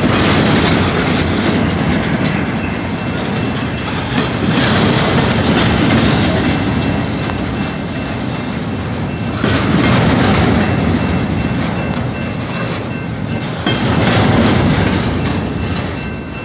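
Double-stack intermodal well cars rolling past on the rails: a steady wheel-on-rail rumble and clatter that swells every four to five seconds as the wheel sets go by.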